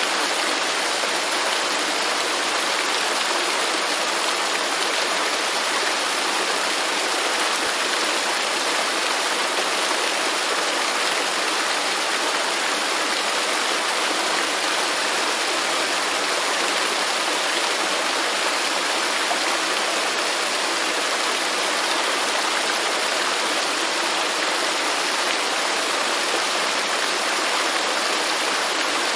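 Waterfall, water rushing and splashing in a steady, even hiss.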